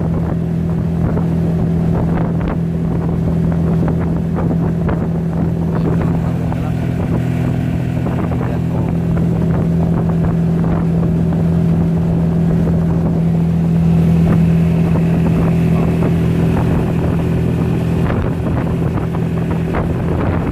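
Motorboat engine running steadily under way, an unchanging low drone.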